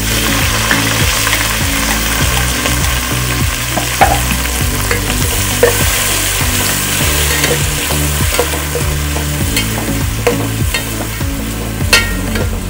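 Food sizzling in hot oil in a cooking pan while it is stirred, with occasional sharp knocks and scrapes of the stirring utensil against the pan.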